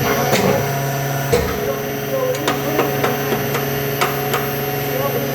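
Steady drone of forge-shop machinery with a run of about eight sharp knocks and clanks, unevenly spaced, as a Damascus billet is forge welded.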